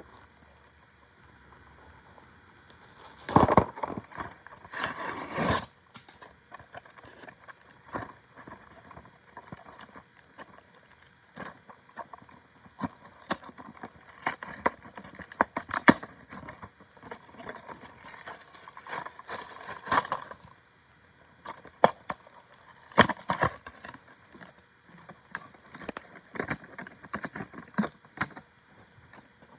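A toy being unboxed: packaging handled with crinkling and rustling in short bursts, and many scattered clicks and taps. The loudest bursts come a few seconds in.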